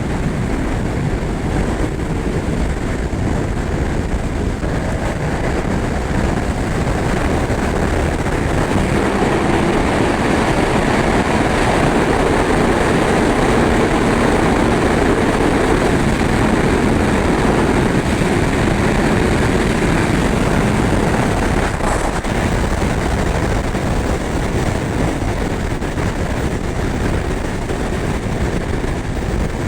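Yamaha R1 sport bike's crossplane inline-four engine running at highway speed, under a steady rush of wind noise. It grows somewhat louder through the middle, then eases back.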